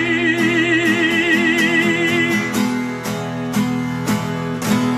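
A sung note held with vibrato over strummed acoustic guitar, ending about two and a half seconds in. The guitar strumming then carries on alone.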